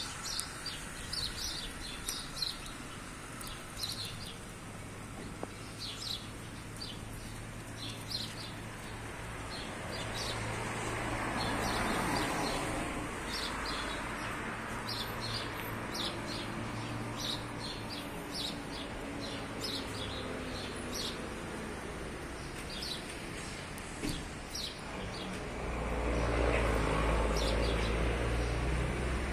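Birds giving short, high chirps again and again. Street traffic swells past twice, about twelve seconds in and again near the end, with a low rumble.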